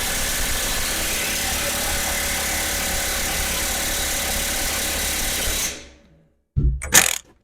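Power tool, most likely an air impact wrench with a 1-1/8 inch socket, running steadily on a nut for about six seconds and then winding down quickly. A couple of brief metallic clinks follow near the end.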